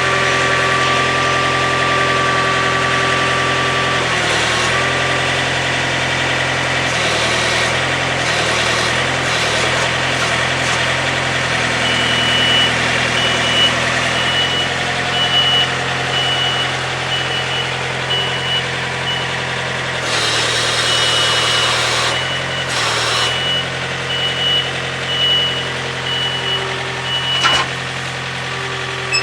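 An engine idling steadily, with a repeated high beep through the middle and later part and a few short bursts of noise over it.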